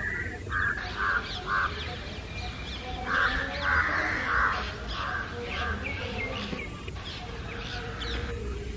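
A flock of house crows and jungle crows cawing loudly, harsh caws in runs: three just after the start, a longer run of about five a few seconds in, and more after that, with thinner, higher calls mixed among them.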